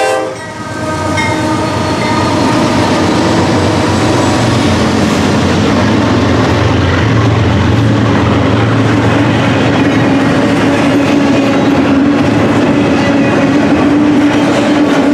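The tail of a locomotive horn blast cuts off right at the start. Then the Norfolk Southern GE AC44C6M and its trailing locomotives pass with a diesel engine rumble, followed by double-stack container cars rolling by with a steady rumble and wheels clicking over the rail joints.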